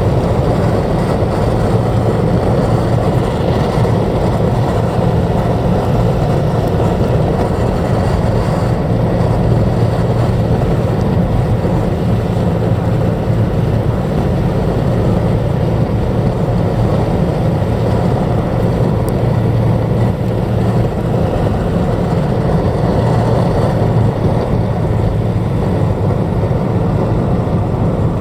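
Car driving at steady speed, with an even rumble of road and engine noise heard from inside the cabin.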